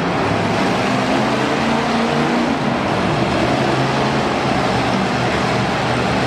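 Monster truck engine running loud and steady, its pitch shifting about two and a half seconds in.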